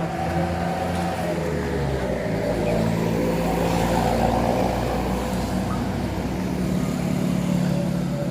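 Motor vehicle engine running on the road, growing louder toward the middle of the stretch and then easing off a little.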